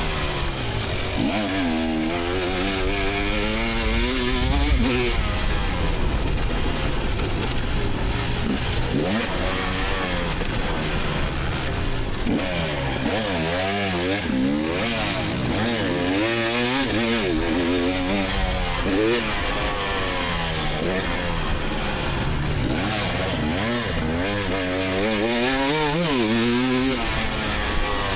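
2024 GasGas EX300 two-stroke 300 cc dirt bike engine, heard from the bike, revving up and falling off again and again as the throttle is worked through the woods course.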